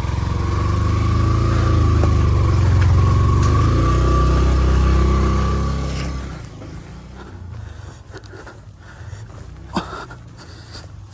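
Motorcycle engine running steadily, then fading away about six seconds in, leaving quieter background with a few light clicks.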